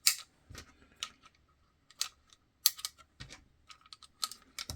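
Irregular sharp clicks and taps of Kydex parts and small screws and hardware being handled as the hood of a Level 2 holster is fitted on.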